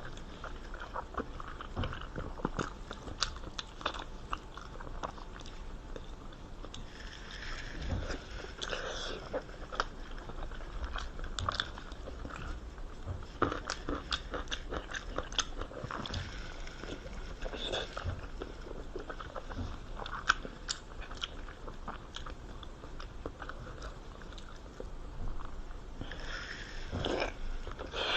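Close-up biting and chewing of pork skin rolls: a steady run of small sharp clicks and mouth noises.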